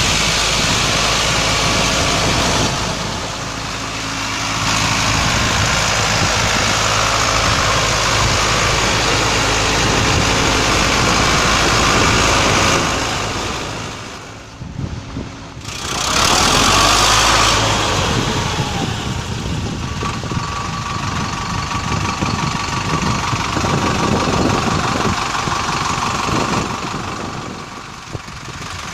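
Sonalika DI 60 RX 60 HP tractor's diesel engine running as it drives. It dips in loudness a few seconds in and again about halfway through, then comes back up.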